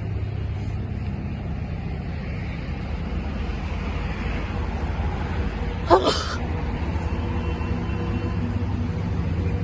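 Steady low road and engine rumble inside a new Toyota car's cabin while driving, with one brief sharp sound about six seconds in.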